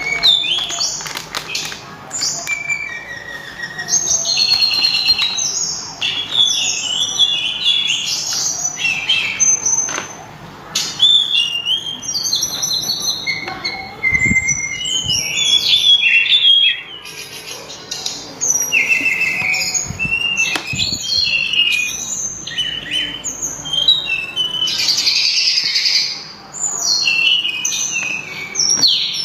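Sulingan (tledekan gunung) songbird singing: loud, clear, varied whistled phrases in quick runs of several seconds, with short pauses between runs.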